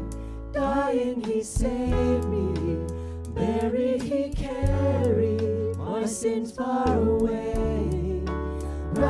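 Praise band worship music: a singing voice carrying a melody over sustained bass notes and accompaniment.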